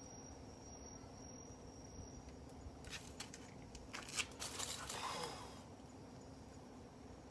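Wood campfire crackling, with a cluster of sharp pops and snaps from about three to five and a half seconds in. A steady high insect trill runs through the first two seconds.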